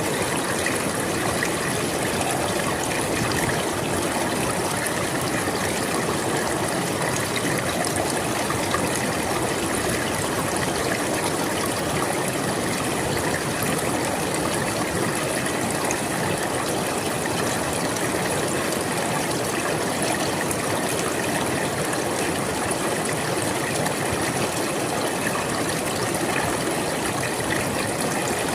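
Flowing river water, a steady, even rush with fine trickling texture and no breaks or changes.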